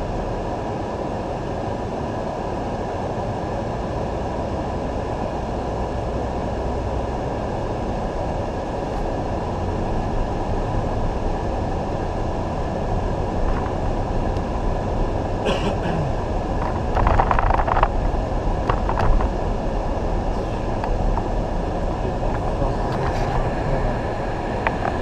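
Steady road and engine noise inside a moving car's cabin, with a few short clicks and knocks partway through.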